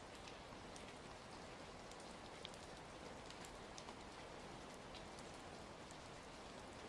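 Soft, steady rain mixed with sparse light crackles of a wood fire.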